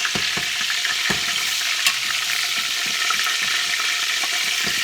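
Bacon grease sizzling hot in a frying pan: a steady hiss with scattered small pops.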